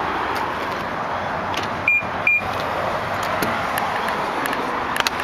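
Two short high electronic beeps from a 2003 BMW 745i, about half a second apart, over a steady background hiss, with a few sharp clicks near the end.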